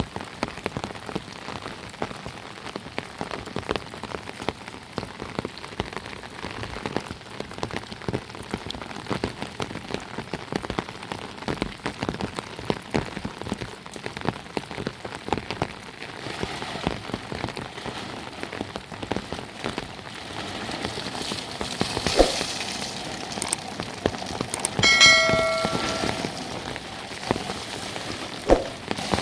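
Heavy rain pattering steadily, a dense spatter of drops hitting the ground and surfaces. Near the end come two sharp knocks and a brief ringing sound.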